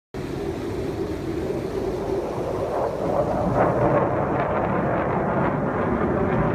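Military jet aircraft flying low overhead: a loud, steady rumble that grows a little louder about three seconds in.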